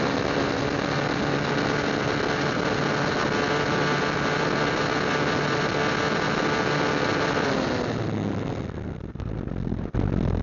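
Motorcycle engine running at a steady pace with road noise, its note held even; about eight seconds in the engine note drops and fades, leaving low, uneven rumbling.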